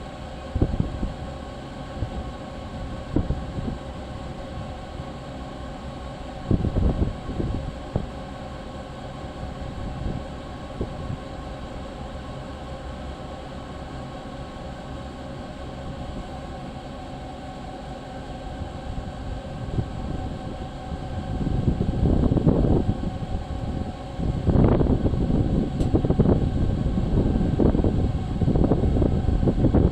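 Train running along the canal-side railway, a steady rumble under a constant mechanical hum, with wind buffeting the microphone in gusts that grow heavier in the last third.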